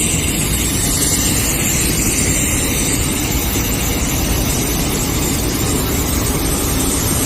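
Pneumatic industrial vacuum cleaner, driven by compressed air, running steadily: a loud, even rush of air over a low rumble.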